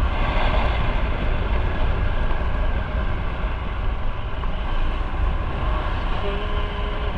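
Steady wind rush and low rumble over the microphone of a moving motorcycle, with engine and road noise underneath.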